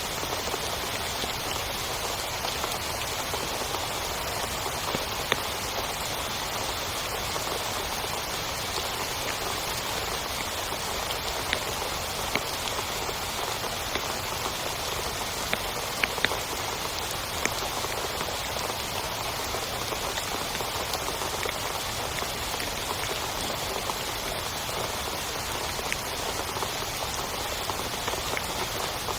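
Heavy rain falling steadily on a tent, with a few louder single drops ticking sharply here and there.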